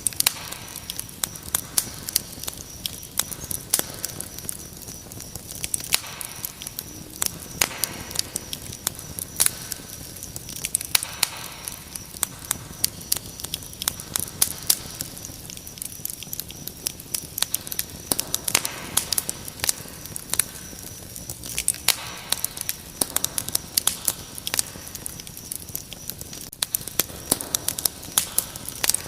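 Wood fire crackling, with frequent sharp pops and snaps over a soft steady hiss, and crickets keeping up a continuous high-pitched trill.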